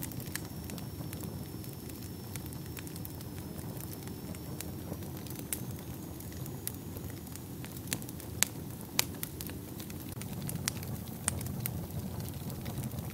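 Wood fire burning in a fireplace: a steady low rush of flames with scattered sharp crackles and pops, a few louder pops about two-thirds of the way through.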